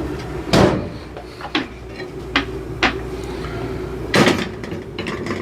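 Kitchen things being handled while making coffee: a series of short knocks and clicks, with louder knocks about half a second in and near the end, over a steady low hum.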